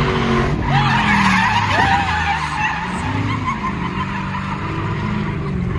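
Drift car's engine revving up and down while its tyres squeal through a slide. The squeal is strongest in the first couple of seconds, and the engine note swells and falls about halfway through.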